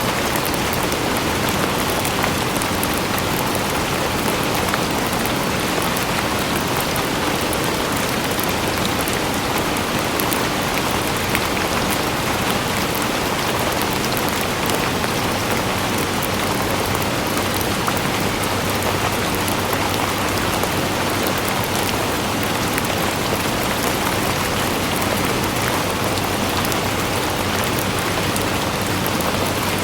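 Steady rain falling and pattering on surfaces, a dense even hiss flecked with individual drops.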